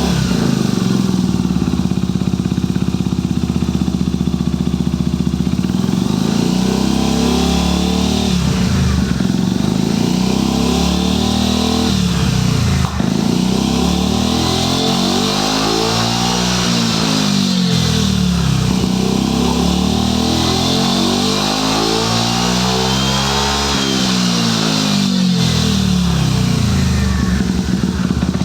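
Yamaha Maxam SG21J 250 cc scooter engine running after its start. The engine is revved up and let fall back about four times, with a steady idle in between.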